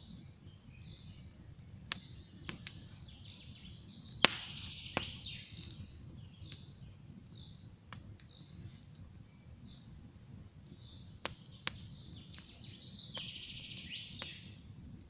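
Campfire crackling, with sharp pops every few seconds, the loudest about four seconds in. Birds sing short, repeated high chirps over the fire.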